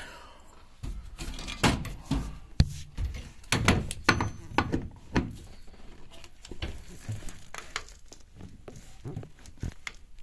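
Irregular knocks, thumps and rustling of a person shifting about and handling things in a cramped race-car cockpit.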